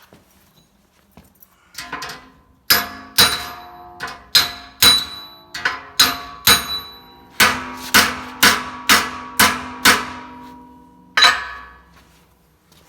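Body hammer striking a sheet-steel patch panel backed by a dolly to fold a flange over, about twenty ringing metal blows. They start at a steady pace, speed up into a quick run, pause, and end with one last hard hit.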